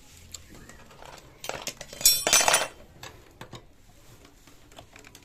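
Metal tools and engine parts clinking and knocking together while the scooter engine is being dismantled, with a loud cluster of ringing clinks about two seconds in and lighter taps around it.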